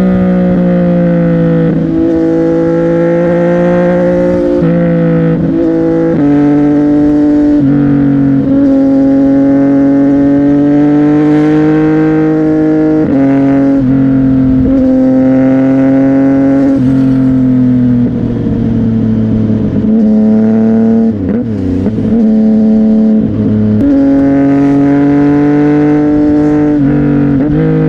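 CFMOTO 675NK's inline-three engine through a titanium exhaust, running under way. Its pitch holds steady for a second or two at a time, then jumps abruptly, with a couple of brief dips and wavering revs about two-thirds of the way through.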